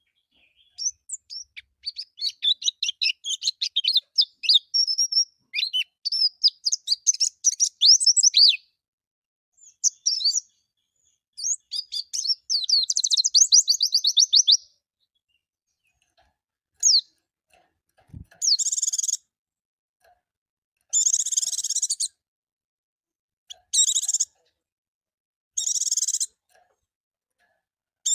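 White-eye (pleci) singing a fast, high chattering song of rapid chirps and trills for about fifteen seconds. After a pause, a harsh, hissing call repeats about five times, each about a second long and two to three seconds apart.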